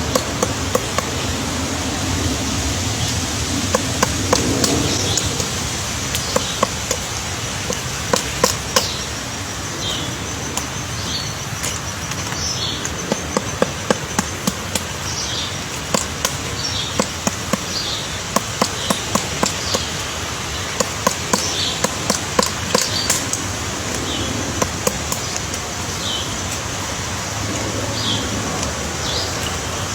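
Woodpecker pecking at wood to dig out its nest hole: irregular sharp taps, often in quick clusters. Short high bird chirps come every second or two over a steady background hiss.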